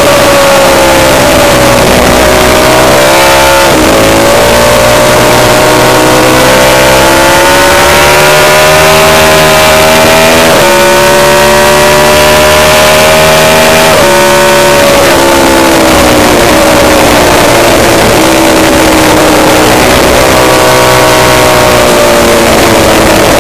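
Lightweight-superbike racing motorcycle engine running loud at high revs, its pitch climbing and then dropping suddenly at gear changes about 4, 11 and 14 seconds in. It then falls away as the bike slows and holds steadier near the end.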